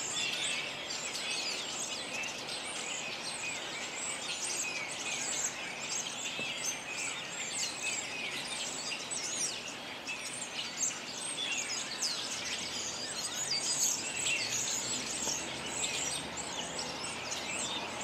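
Small birds chirping and twittering, many short high calls overlapping, over faint steady background noise.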